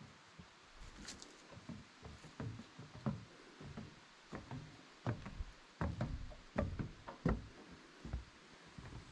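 A series of irregular knocks and thumps, denser and louder in the second half.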